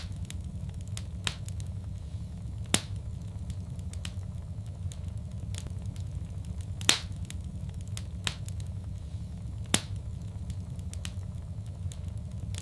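Wood fire crackling in a fireplace: sharp single pops every second or two over a steady low rumble of the burning fire.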